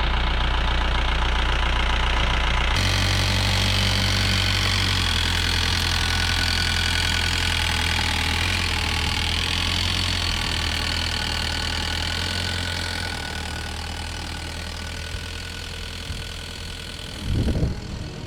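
Mahindra Bolero pickup's engine idling steadily, with an abrupt change in its sound a few seconds in and a gradual fade in the later part.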